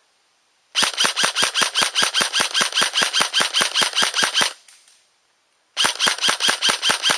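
Airsoft gun firing two long strings of rapid, evenly spaced shots at about six a second. The first string lasts nearly four seconds and the second starts near the end.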